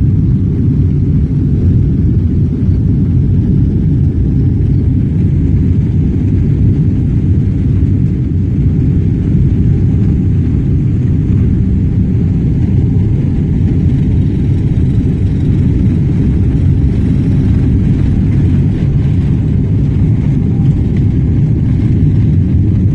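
Steady, loud low rumble inside the cabin of an Emirates Boeing 777-300ER during takeoff, from its GE90 engines at takeoff power.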